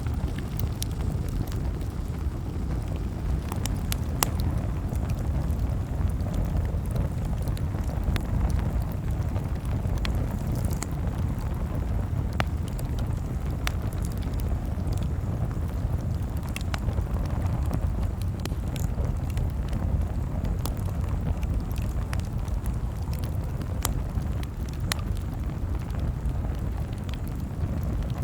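Campfire crackling: a steady low rush of flames with irregular sharp pops and snaps scattered throughout.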